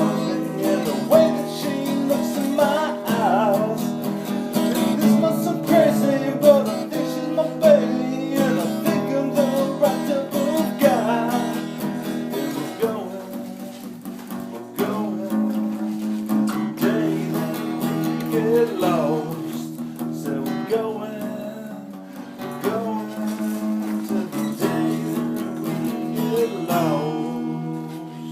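Acoustic guitar played without words, strummed chords under a picked melody line.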